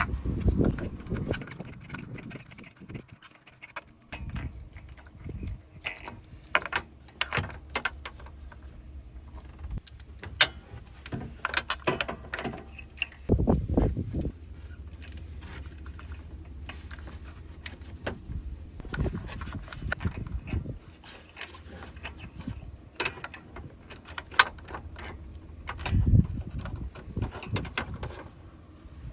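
Ratchet and deep socket clinking and clicking against metal at irregular intervals as spark plugs are loosened and taken out of the engine. A low steady hum lies under much of it.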